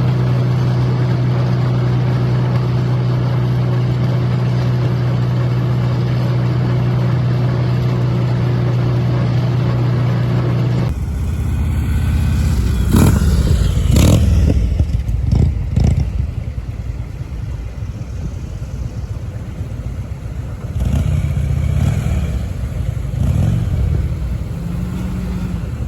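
Tractor engine running at a steady drone, then after an abrupt change about eleven seconds in, rougher uneven engine sound with a few clattering knocks.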